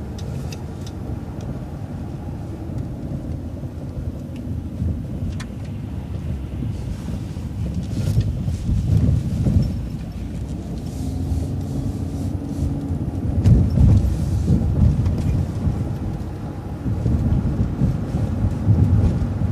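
City transit bus heard from on board, its engine and road noise making a low rumble that swells and eases as the bus turns and pulls ahead, louder in the second half, with a few faint clicks and rattles.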